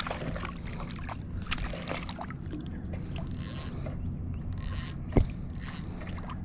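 Fishing reel being cranked as a small ladyfish is brought in to a kayak, with scattered small clicks and a single sharp knock about five seconds in.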